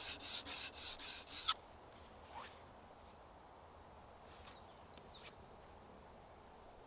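Rasping strokes of a hand tool on a timber beam, about three a second, ending with one sharper stroke about a second and a half in. After that only faint bird chirps.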